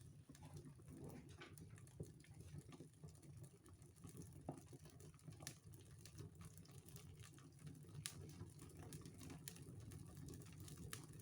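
Wood fire burning in a fireplace: faint, scattered crackles and pops at irregular moments over a low steady rumble.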